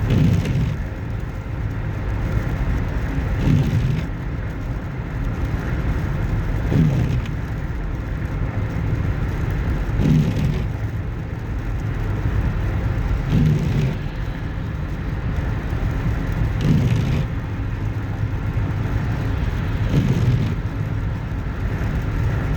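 Steady road and engine noise inside a car cruising on a highway, with a whooshing swell that comes back regularly about every three seconds.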